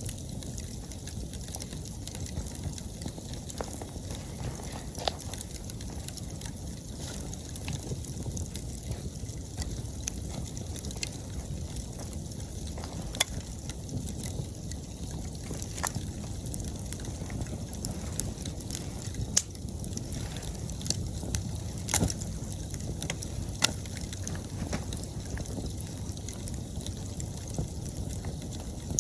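Wood fire burning with a steady low rush and scattered sharp crackles and pops, a handful of them louder than the rest.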